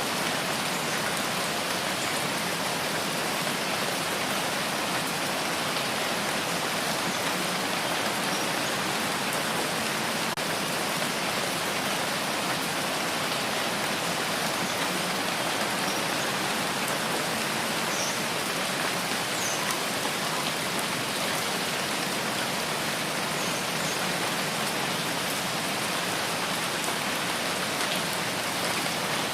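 Steady rain falling, an even hiss of many drops with a few faint separate drip ticks.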